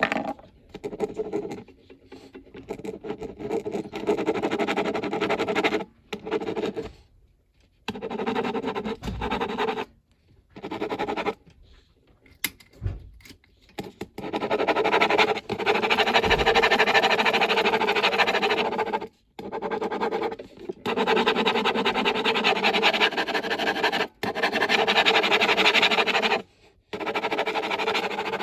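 A coloring utensil scratching back and forth across paper, in stretches of several seconds broken by short pauses.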